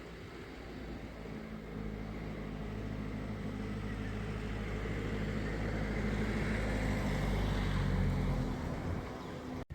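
A motor vehicle's engine humming low and steadily, growing louder over several seconds, easing off near the end, then cutting off suddenly.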